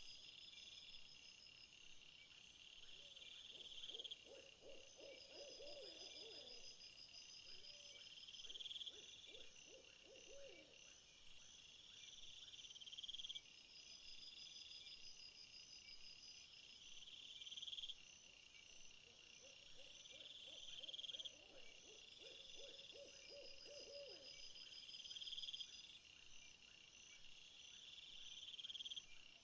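Faint night-time insect chorus. One buzzing call swells and cuts off sharply about every four and a half seconds, over steady higher chirping. Twice a low, quavering, hoot-like trill lasts several seconds.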